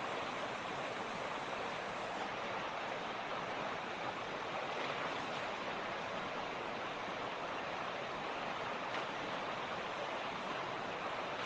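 Creek water rushing and splashing over rocks in a steady, unbroken stream.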